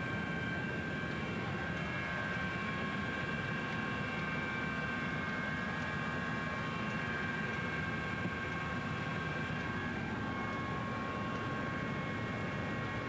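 Helicopter running steadily: a dense, constant engine and rotor noise with a high, steady whine over it.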